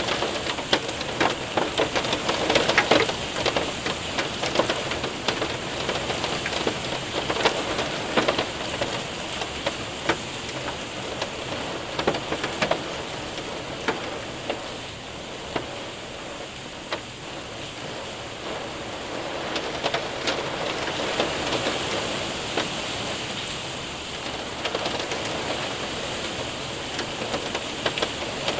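Rain and hail hitting a window and roof: a dense patter with many sharp ticks from hailstones, heavier in the first few seconds, easing off in the middle, then building again.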